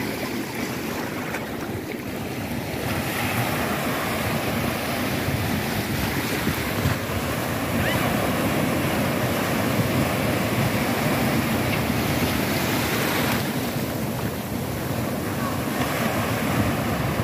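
Surf breaking and washing onto a beach, a steady rush that swells about three seconds in, with wind buffeting the microphone.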